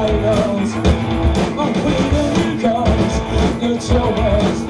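Live rock band playing loudly: drums keep a steady driving beat under basses, electric guitars and a wavering melodic line.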